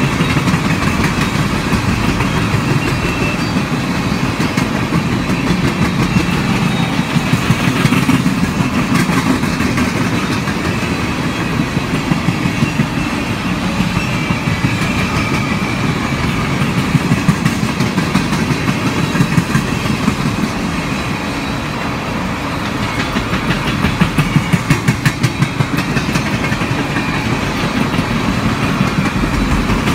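Railroad cars of a passing train rolling by steadily, their wheels clicking over rail joints in short groups several times.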